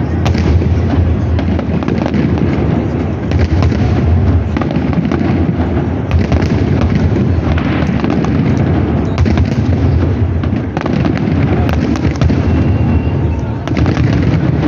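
Fireworks display: many bangs and crackles in quick succession, overlapping into a continuous din with a strong low boom throughout.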